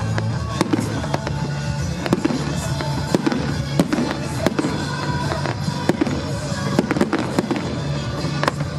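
Fireworks bursting in a rapid irregular series of sharp bangs, about one or two a second, over music with sustained low notes.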